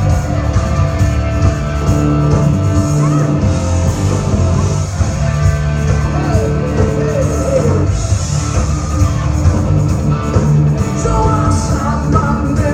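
Rock music with singing and guitar, playing loudly and steadily.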